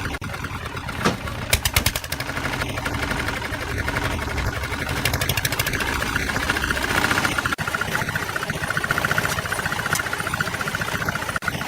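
An engine of construction machinery running steadily, with a quick run of sharp knocks about one and a half seconds in.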